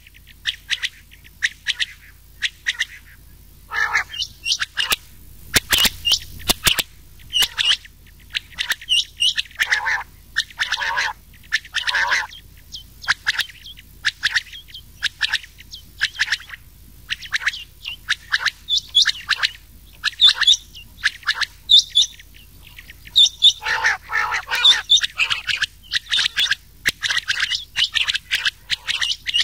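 Rain quail and common quail calling in a mixed recording: short, sharp call notes repeated in quick runs with brief gaps. A short crackle of clicks comes about six seconds in.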